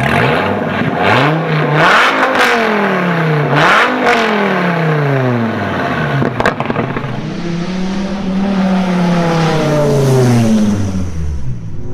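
A V10 car engine revving: two quick blips up and back down, then a longer, slower rise and fall in revs.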